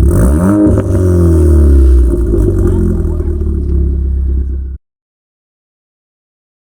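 Turbocharged 2014 Ford Fiesta ST 1.6 L EcoBoost four-cylinder revved through a catless downpipe and 3-inch CP-E catback exhaust: a quick rise and fall in pitch at the start, then the engine note sliding back down toward idle. The sound cuts off abruptly about two thirds of the way through, leaving dead silence.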